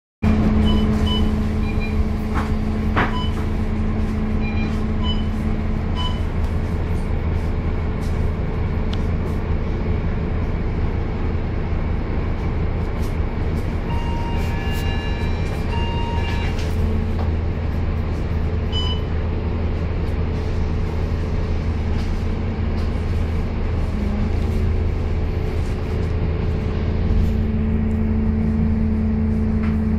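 Scania K230UB city bus heard from inside: its diesel engine runs with a steady low hum. A few short electronic beeps sound about halfway through, with small clicks and rattles scattered throughout.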